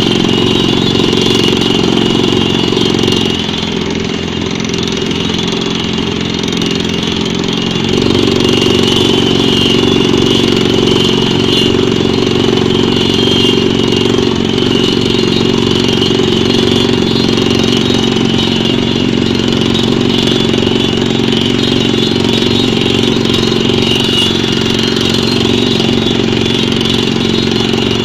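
Pneumatic drilling rig running with a steady engine-like drone. It eases off a little a few seconds in and picks back up about eight seconds in.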